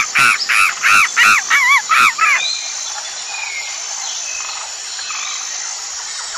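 Monkey calling: a run of about seven loud, short, high-pitched arching screams over the first two and a half seconds, then the calls stop, leaving quieter background with a few faint bird chirps.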